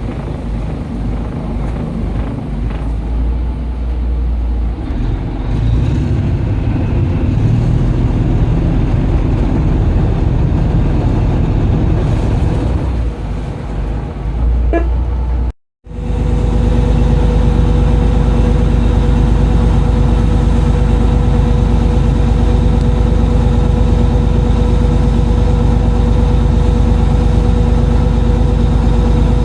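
Boat engine running steadily. About halfway through the sound cuts out completely for a moment, then comes back as an even engine drone with a clear, steady hum.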